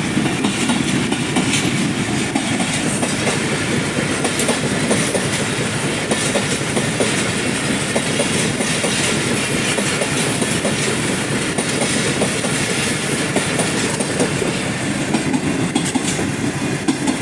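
A train rolling past, its wheels clattering steadily over the rail joints with a continuous rumble and frequent sharp clicks.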